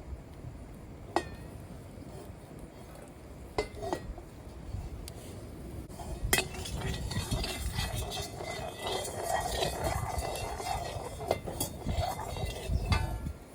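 A metal utensil clinking and scraping against metal cookware. A few separate knocks come in the first half, then a dense run of quick clinks lasts about six seconds.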